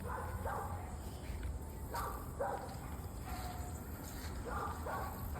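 A dog barking: short barks in pairs, three times, over a steady low background rumble.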